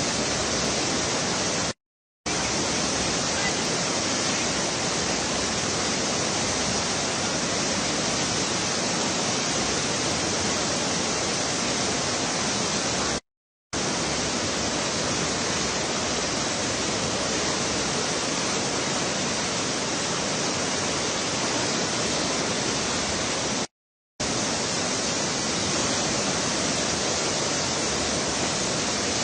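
Swollen Tamsa river in flood, its water rushing as a steady, even noise. Three short silent breaks cut it, about two seconds in, midway and near the end.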